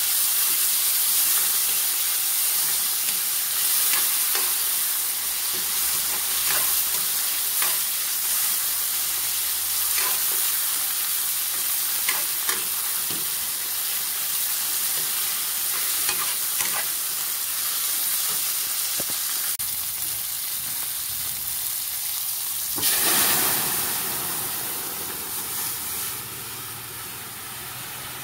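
Chopped tomato, onion and garlic sizzling in oil in a stainless steel wok, a metal spatula scraping and clicking against the pan every second or two as it stirs them until the tomato softens. Near the end a louder rush as the boiled mung beans and their broth go in, after which the sizzle drops to a quieter simmer.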